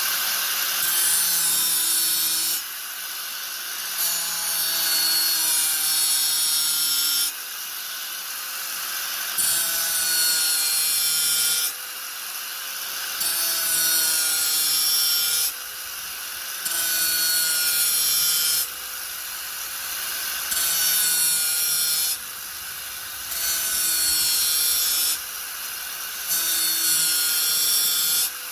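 Angle grinder running with a steady motor whine, repeatedly bearing into the work for two to three seconds with a louder rasping grind, then easing off for about a second, over and over.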